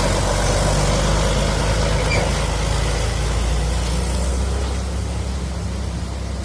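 Heavy truck's diesel engine running steadily with a low drone, easing off slowly in the second half.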